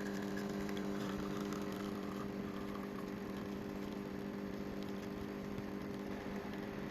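HiBREW H10A espresso machine's pump humming steadily while pulling an espresso shot.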